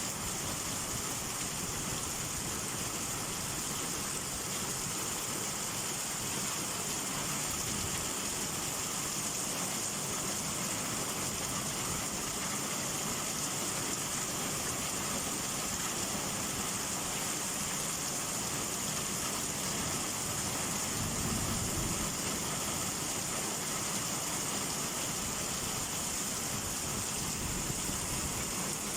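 Steady rain hiss with no let-up, and a brief low rumble about three-quarters of the way through.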